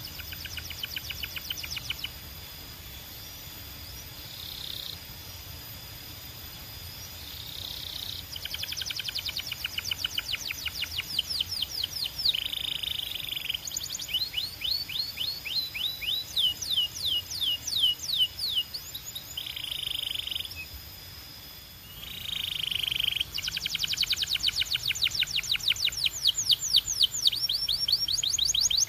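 Canary singing long song phrases: rapid trills, each a fast run of repeated downward-sweeping notes, broken by short buzzy rolls and brief pauses.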